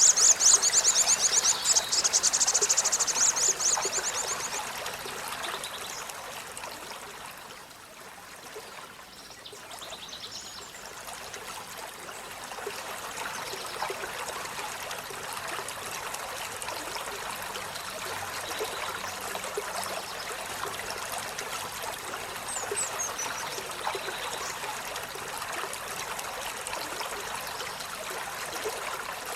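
Running water of a stream, trickling steadily. The first four seconds carry a loud, rapid, high trill, and a single short falling chirp comes about two-thirds of the way in.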